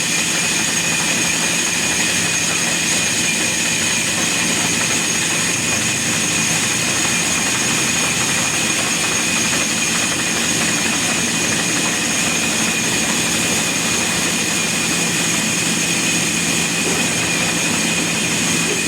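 Sawmill machinery running steadily: a loud, even mechanical noise with a constant high-pitched whine and a low hum, unchanging throughout.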